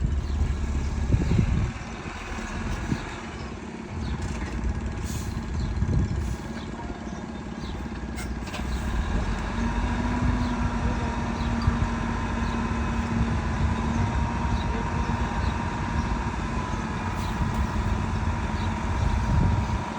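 Heavy diesel construction machinery running steadily, with a few sharp knocks. A steady whine joins about halfway through.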